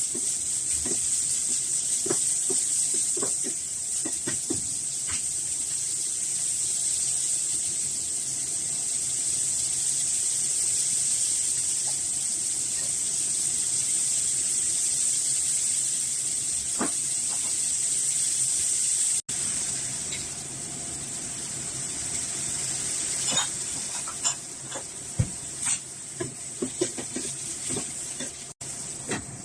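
A steady high hiss throughout, with scattered light clicks and crinkles of a package being handled and opened, busier near the start and in the last few seconds.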